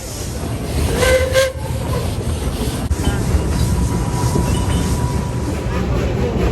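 Puffing Billy narrow-gauge steam train giving a short whistle blast about a second in, then running with a steady low rumble.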